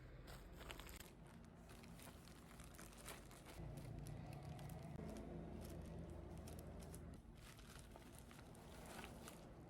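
Faint rustling and crinkling with scattered light clicks, as of things being handled. A low steady hum comes in about a third of the way through and fades about two thirds through.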